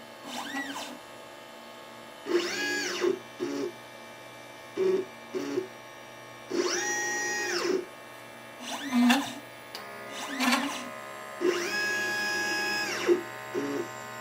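LitePlacer pick-and-place machine's stepper motors whining through a series of axis moves. On each long move the pitch rises as the motor speeds up, holds steady, then falls as it slows; there are three such long moves, with several short low buzzes from brief moves between them.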